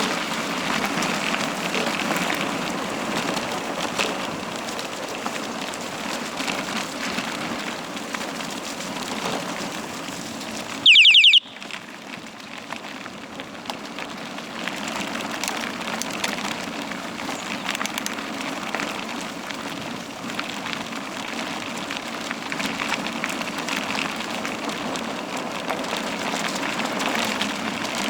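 Steady rushing noise of a bicycle on a downhill ride, wind over the microphone mixed with tyres rolling on the forest track. About eleven seconds in, a brief loud high-pitched squeal cuts in for about half a second.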